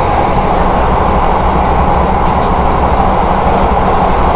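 KA Bengawan passenger train running at speed, a steady loud rumble and rolling noise of wheels on rail heard from inside the carriage.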